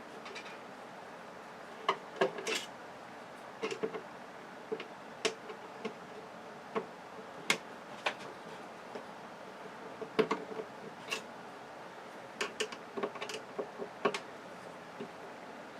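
Irregular small clicks and taps of a screwdriver and loose parts being worked on a flat-screen TV's metal chassis as it is dismantled, a few dozen separate sharp knocks scattered with short gaps between them.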